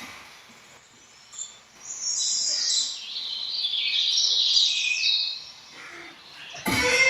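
Birds chirping and twittering in a dense, high-pitched chorus from about a second and a half in, fading shortly before rhythmic music starts abruptly near the end.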